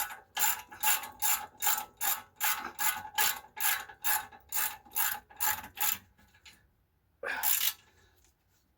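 Hand ratchet wrench clicking through quick back-and-forth strokes, about three a second, as a bolt is run down, stopping about six seconds in, then one more short run of clicks a second later.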